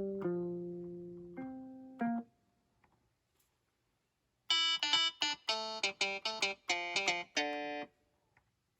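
Notes played on the Akai MPK Mini Play MK3's built-in sounds: a chord fading out over the first two seconds, a short pause, then a quick run of about a dozen short, brighter notes.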